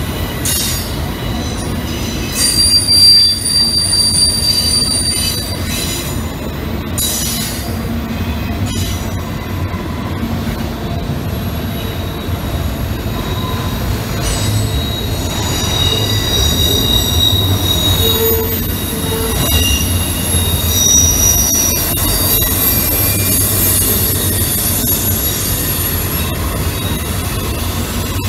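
Freight train of autorack cars rolling past with a steady rumble, the cars squealing in high thin tones that come and go.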